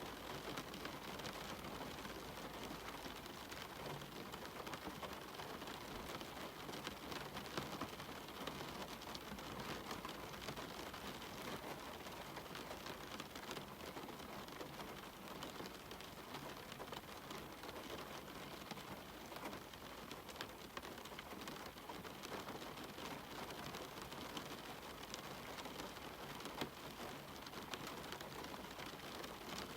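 Steady rain falling, an even hiss with dense small drop ticks throughout.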